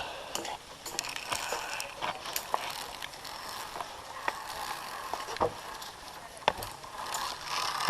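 Scattered metallic clicks and clinks from climbing harness gear (carabiners and lanyards) on a steel cable, over a steady hiss.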